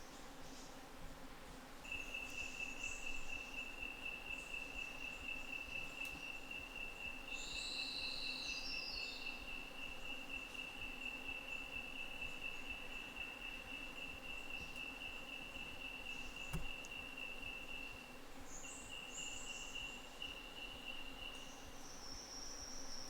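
An insect trilling: a steady, high, continuous trill that starts about two seconds in, breaks off briefly, resumes and then stops near the end. Other high insect chirps sound faintly around it, and a short run of falling notes comes about eight seconds in.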